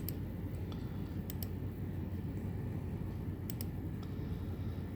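Computer mouse clicking: three quick double clicks a second or two apart, over a steady low hum.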